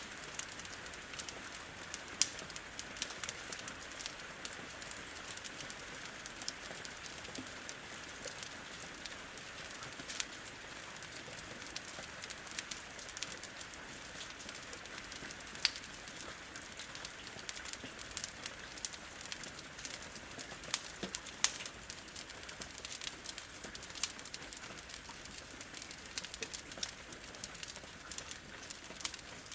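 Rain falling steadily against a window as a continuous hiss, with a wood fire crackling over it in frequent sharp pops and snaps.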